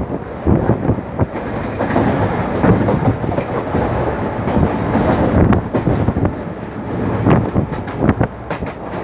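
Express passenger train running at speed, heard from the open door of a coach: wheels clattering over the rails, with short sharp clicks over a steady rumble.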